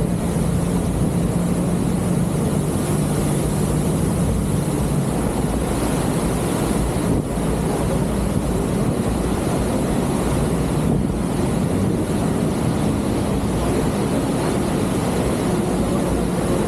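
A motor launch's engine runs steadily under a loud, constant rush of wind and water close to the waterfalls.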